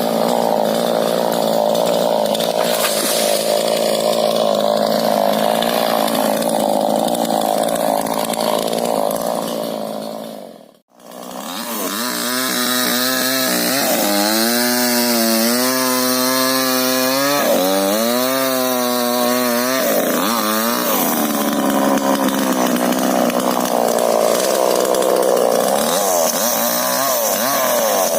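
Two-stroke chainsaw running at high revs while cutting into a rubber tree. It fades out briefly about eleven seconds in, then comes back with its engine note wavering up and down as the chain loads in the cut.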